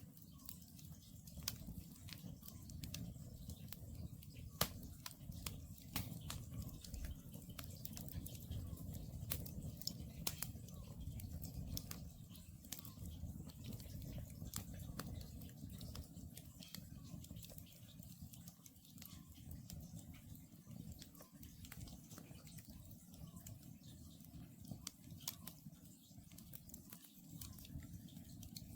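Wood campfire crackling, with frequent sharp pops over a low steady rumble; the loudest pop comes about four and a half seconds in. An Oriental scops owl calls faintly in the distance.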